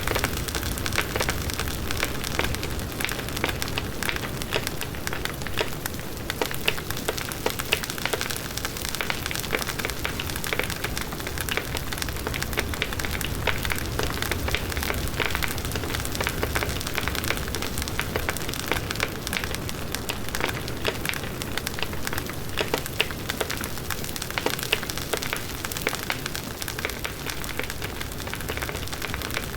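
Large wood bonfire burning steadily: a dense run of small crackles and pops over the low rush of the flames.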